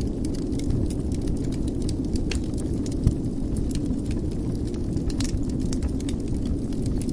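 Wood fire burning in a fireplace: a steady low rumble with scattered sharp crackles and pops, one louder pop about three seconds in.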